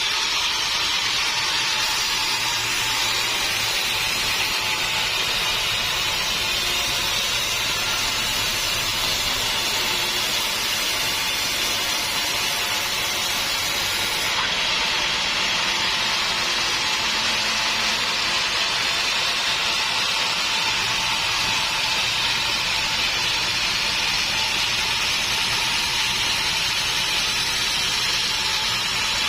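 Sawmill saw running steadily through wood, a continuous even noise with no breaks.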